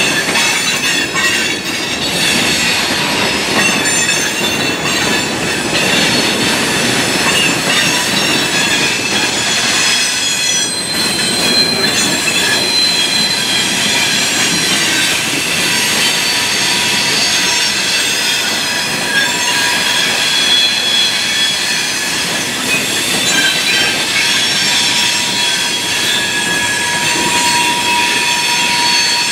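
Freight train cars rolling past, their wheels squealing against the rails in several high, drawn-out tones over a steady rolling rumble. A lower squeal tone joins near the end.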